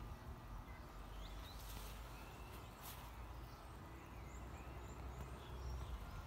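Faint outdoor ambience: scattered high bird chirps over a low steady rumble.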